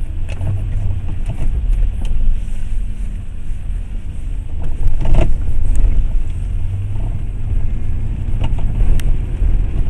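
Steady low rumble of road and engine noise inside a moving car, with a few short knocks, one about halfway through and one near the end.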